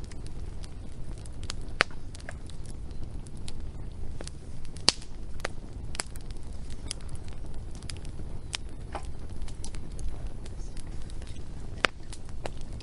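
Wood fire crackling: sharp pops and snaps at irregular intervals over a low, steady rumble of burning, with louder pops about two, five and twelve seconds in.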